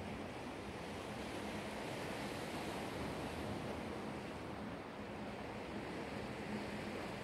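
Black Sea waves washing on the shore: a steady rushing surf noise that swells slightly around the middle.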